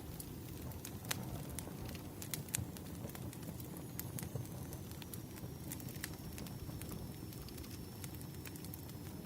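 Wood fire crackling: irregular sharp pops and snaps over a low steady rumble, with a faint thin high whistle coming in a few seconds in.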